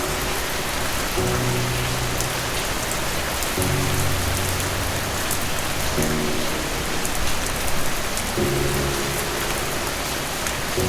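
Steady rain falling, an even hiss with fine drops pattering through it. Under it, soft music of low held chords changes every two or three seconds.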